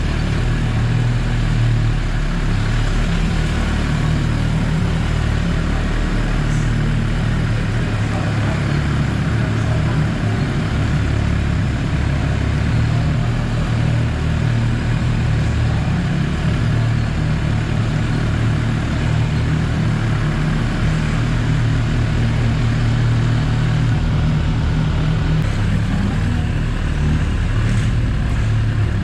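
Motorcycle engine running steadily at low revs, a loud, even rumble with no revving.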